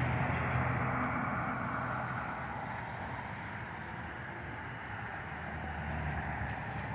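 Jet engines of a Boeing 737-900ER (CFM56-7B turbofans) running for takeoff, heard from outside: a steady rushing noise over a low hum, easing slightly midway and building a little again near the end.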